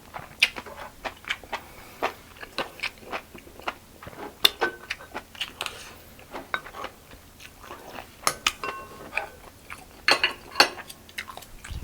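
Close-miked chewing of food, an irregular run of short crisp crunches and bites, with a few light clinks of cutlery on dishes.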